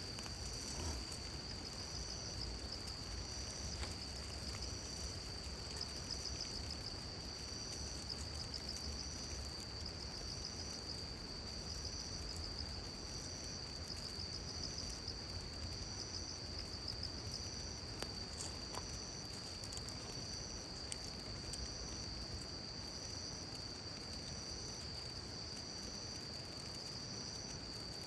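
Insects, likely crickets, singing: a continuous high trill with a second, higher chirp repeating about once a second, and a few faint clicks.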